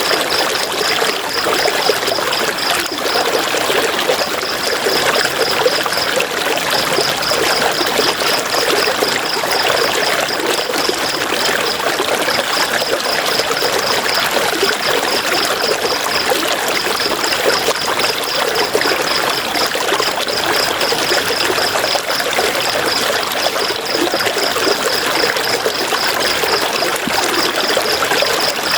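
A river flowing, a steady rushing and trickling of water. Over it, a high, rapid pulsing trill comes in runs of a few seconds with short gaps.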